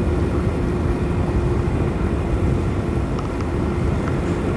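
Motorcycle riding along at a steady speed: engine hum with road and wind noise, picked up by a helmet-mounted microphone.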